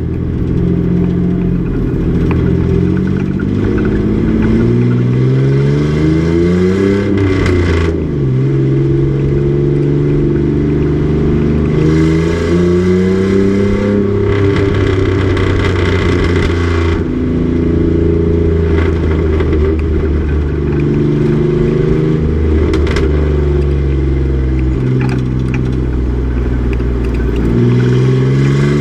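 Race truck's engine under load on track, its pitch climbing and then dropping back at gear changes several times, with stretches of steady running in between.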